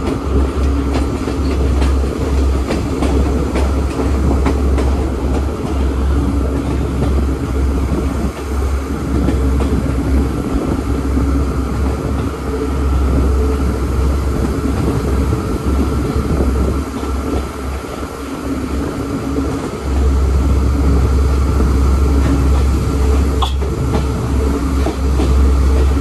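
A passenger train running, heard from inside the carriage: a steady low rumble and rattle of the wheels on the track, with a few light clicks. The deep rumble eases for a few seconds about two-thirds through, and a single sharp click comes near the end.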